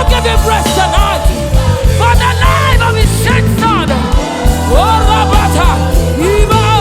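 Live gospel praise band playing, with a steady beat of drums and bass, while a lead singer's voice rises and falls over it.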